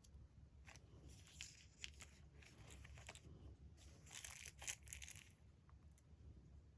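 Faint rustling and handling of magazine paper in short bursts, with a louder stretch of crinkling about four to five seconds in.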